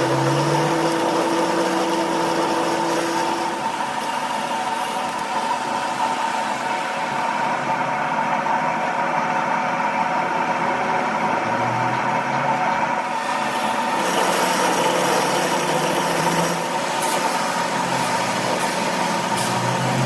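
A machine running steadily with a constant hum and whine, its high hiss dropping away for a few seconds midway and coming back.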